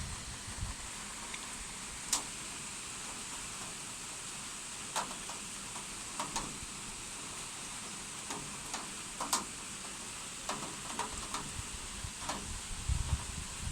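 Steady hiss of heavy rain, with scattered sharp taps of drops striking something close by. Low gusty wind rumble on the microphone near the end.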